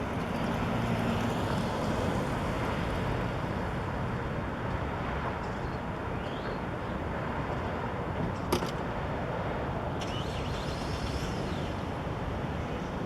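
Steady city traffic noise, with one sharp click about eight and a half seconds in.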